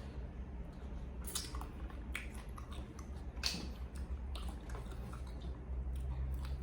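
A person chewing and biting food up close, with several short sharp crunches scattered through, over a steady low hum.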